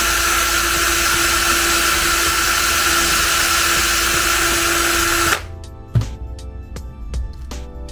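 Small electric motor running at a steady, constant speed with a high whine, stopping abruptly about five seconds in.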